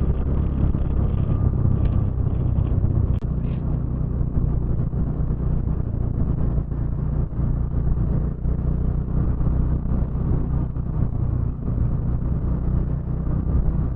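Motorcycle engine running at a steady cruising pitch while riding, with wind rushing over the helmet microphone.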